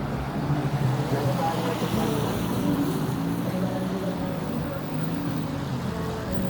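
Busy city street: traffic running on a wet road under the voices of people talking nearby.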